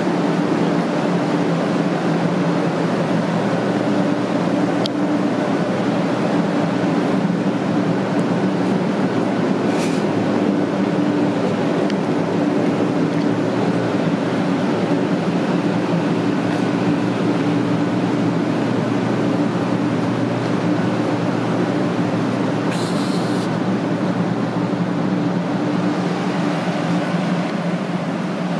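500 series Hello Kitty Shinkansen standing at the platform, giving off a steady hum from its onboard equipment with a couple of low held tones and no rise or fall.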